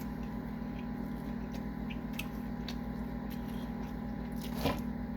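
Quiet eating: faint chewing and small clicks of food being handled, over a steady low electrical hum, with one short louder rustle near the end.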